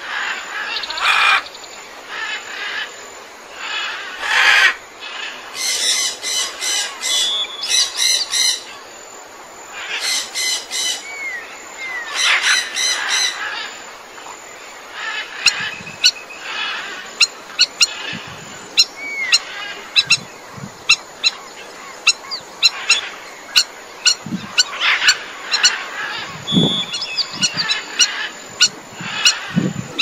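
Several wild birds calling together: short high chirps and harsher squawks, turning in the second half into a quick run of sharp, clipped chirps, several a second.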